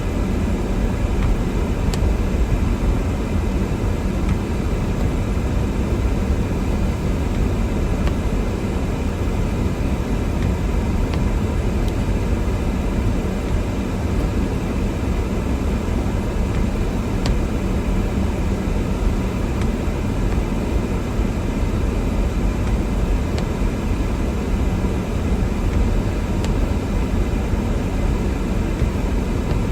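Steady low rumble of a car driving on a snow-covered road: engine, tyre and wind noise at an even level.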